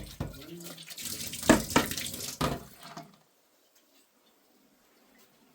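Water running and splashing, with a few knocks, that stops about three seconds in.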